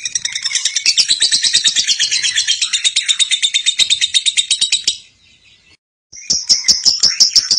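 Lovebird chattering in a long, rapid, high-pitched trill (the 'ngekek' song), many notes a second. It breaks off about five seconds in for about a second, then starts again.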